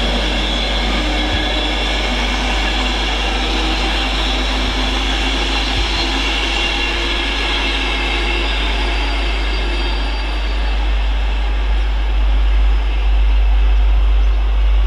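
Train passing through the station, with steady wheel and rail noise and a low rumble that grows stronger near the end.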